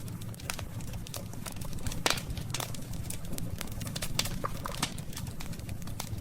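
Wood campfire burning, with irregular crackles and pops over a low steady rumble; one louder pop about two seconds in.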